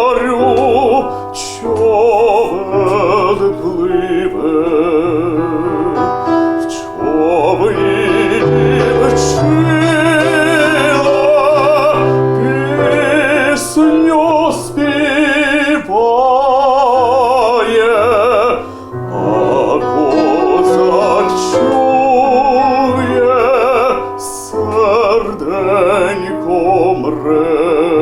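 A dramatic baritone sings a slow Ukrainian song in operatic style with strong vibrato over piano accompaniment. The sung phrases break off briefly several times.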